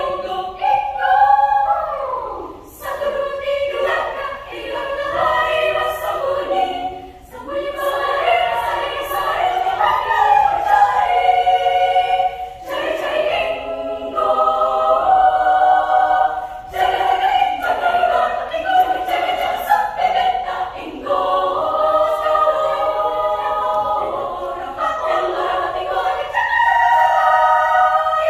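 Children's choir singing in several parts, without instruments, in phrases with brief breaks between them.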